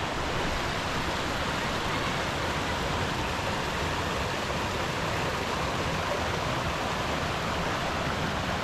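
Steady rushing of water from a rainforest waterfall, an even unbroken noise.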